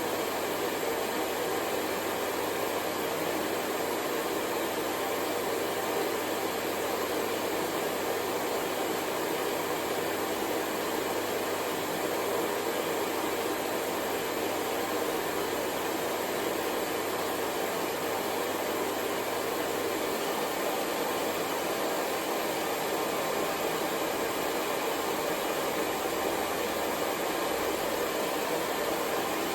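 Hair dryer running steadily: an even, unbroken blowing hiss that never changes in speed or level.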